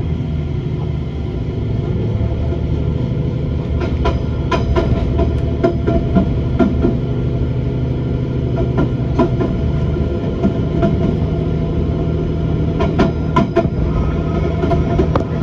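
A passenger train running along the track: a steady low drone with irregular clicks and knocks as the wheels pass over rail joints.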